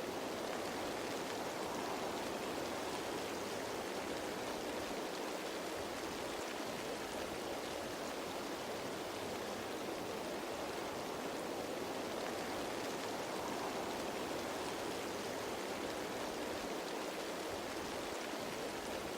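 Steady rain falling on leaves: an even, unbroken hiss of many drops, with no single drop standing out.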